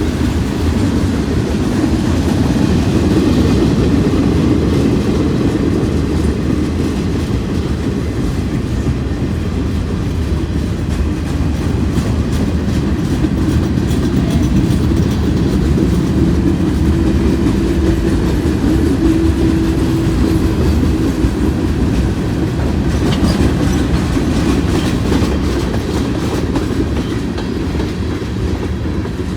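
Freight train cars rolling steadily past, the wheels clicking over the rail joints over a continuous low rumble. A faint steady tone rises out of the rumble for a few seconds about midway.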